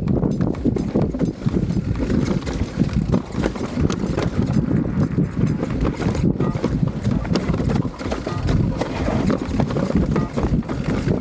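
Pivot Phoenix downhill mountain bike rattling and knocking as it rides down a rough trail, with a heavy low rumble and many quick clicks and clunks from the frame and drivetrain.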